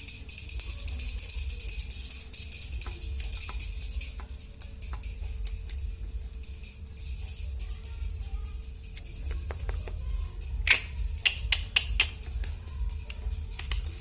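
A small bell, likely a bird-cage toy bell, jingling and ringing, busiest over the first four seconds and then tinkling sparsely, with a short parrot squawk about eleven seconds in.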